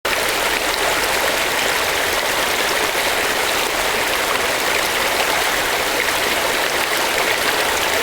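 Steady rushing hiss of water, even and unbroken, starting suddenly.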